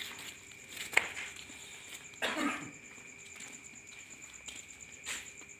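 A person coughs once, briefly, a little after two seconds in, with a sharp click about a second in and another short burst near the end. Behind it, a steady high-pitched chirring runs throughout.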